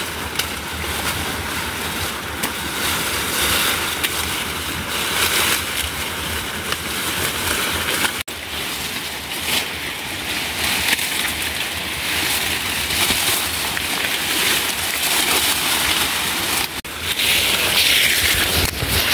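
Heavy monsoon rain falling in a steady rushing hiss, cut off for a moment twice, about eight and about seventeen seconds in.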